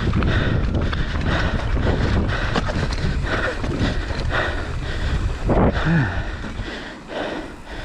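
Wind buffeting the microphone of a camera on a mountain bike as it rides down a rough trail, with frequent rattles and knocks from the bike. There is a brief falling tone about six seconds in. It gets quieter near the end as the bike slows.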